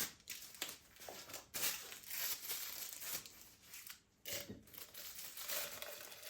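Packaging being handled, crinkling and rustling in irregular bursts, with a short pause about four seconds in.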